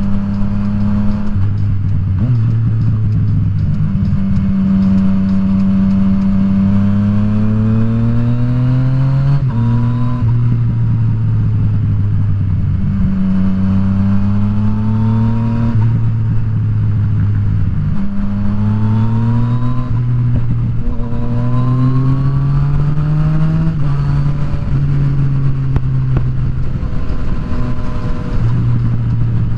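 Yamaha FZ-09's inline three-cylinder engine pulling through the gears: revs climb several times and drop sharply at each upshift, then run steady near the end, with wind noise underneath.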